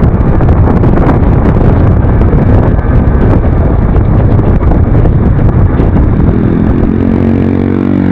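Wind rush on the microphone and a Yamaha NMAX scooter engine running while riding. About six and a half seconds in, the wind noise eases and the engine's steady hum comes through clearly.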